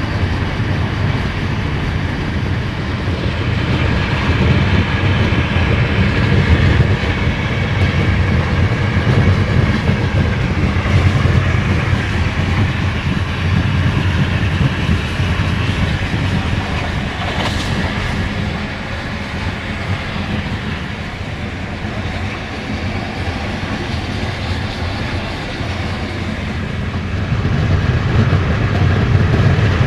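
Inside a moving passenger train coach: the steady low rumble of the wheels running on the rails. It eases a little past the middle and rises again near the end.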